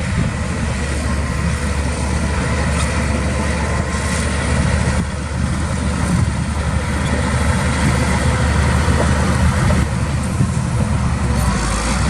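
Heavy diesel engine of earthmoving equipment running steadily, its sound mostly a low rumble.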